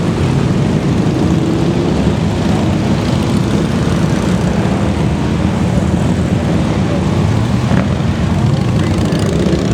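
Many motorcycle engines rumbling steadily as a parade of bikes rides past.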